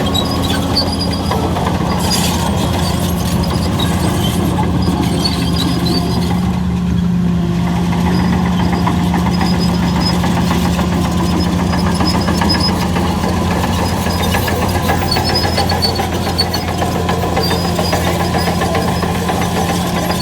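Heavy diesel engine of earthmoving machinery running steadily under load, a continuous low drone with no let-up.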